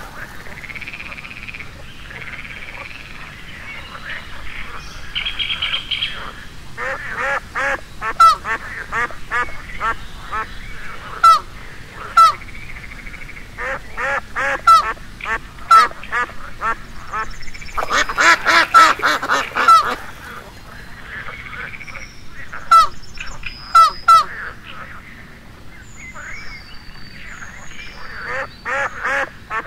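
Ducks quacking, several birds calling in short quacks, sometimes singly and sometimes in rapid runs of many quacks together.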